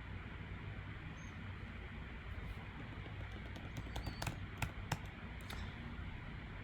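Steady low hum and hiss, with a quick run of five or six sharp clicks about four seconds in.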